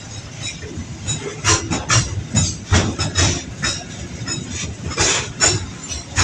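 Container freight train's wagons rolling past, the wheels clacking sharply over the rail joints, about two clacks a second over a steady rumble.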